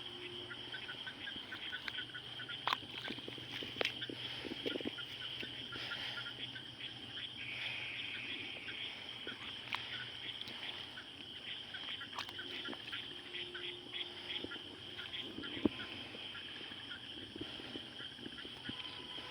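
Frogs calling in a night chorus, many short repeated calls over a steady high-pitched drone, with a few sharp knocks.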